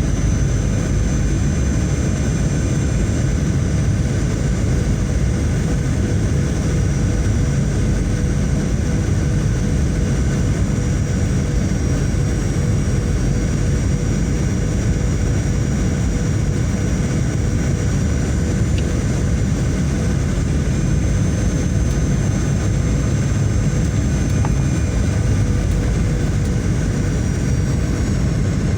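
Steady airliner cabin noise in flight: engine and airflow noise, heaviest in the low range, with faint steady whines above it and no change throughout.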